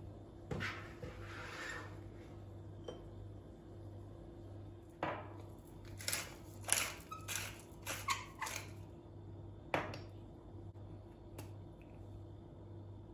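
Kitchen work sounds: a knock and a short rustle, then a quick run of light clinks and knocks of dishes and utensils being handled, over a steady low hum.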